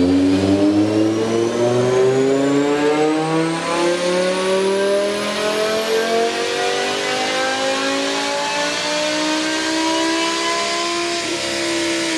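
BMW E60 M5's V10 engine in a full-throttle dyno pull, revs climbing steadily for about ten seconds and levelling off near the top of the rev range near the end.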